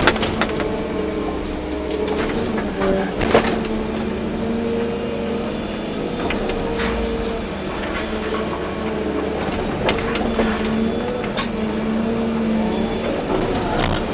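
Volvo EC240B excavator's diesel engine running steadily under working load, its pitch wavering slightly as the hydraulics work, with occasional sharp clicks and knocks.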